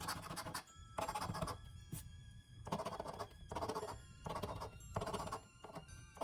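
Scratch-off lottery ticket being scratched in a run of short, quick scraping strokes, several a second in bursts, over faint background music.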